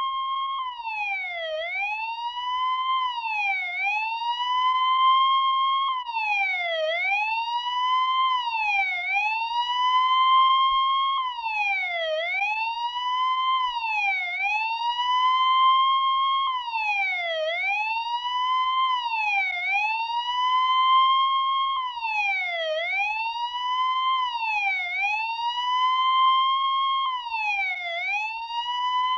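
Police car siren sounding continuously: a clean tone near 1 kHz that holds, drops sharply in pitch, and climbs back again, repeating about every two seconds.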